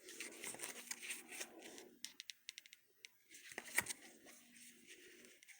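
Faint handling noises: light rustling, a quick run of small clicks, and one louder click or tap about two-thirds of the way through.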